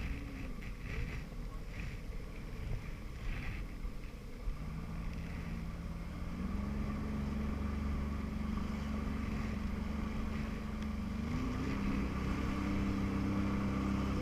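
Jet ski engine running, with rushing wind and water noise. About four and a half seconds in a steady engine note comes up, and it rises a step in pitch twice, near six and a half and near eleven and a half seconds.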